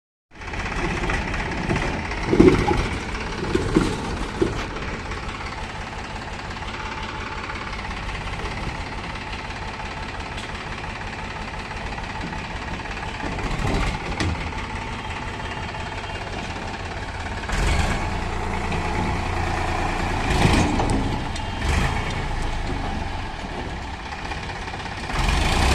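Tractor engine running steadily, with a few short louder surges, two or three early on and several more in the second half.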